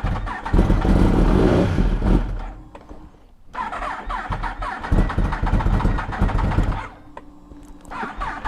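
2015 Yamaha R1 motorcycle's electric starter cranking the engine in two attempts, and the engine does not catch: the battery is too weak to start it.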